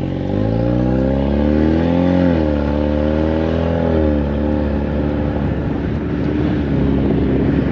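2021 Mustang EcoBoost's turbocharged 2.3-litre four-cylinder with the muffler and most of the exhaust removed, accelerating: the engine note rises, falls at an upshift about two seconds in, rises again, falls again around four seconds, then runs steadier.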